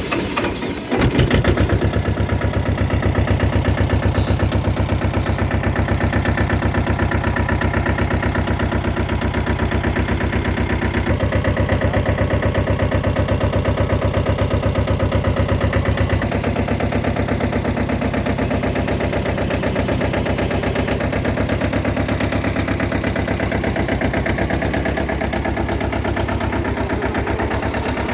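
Mini tractor's engine running steadily with a fast, even chug, getting louder about a second in and changing its note twice further on.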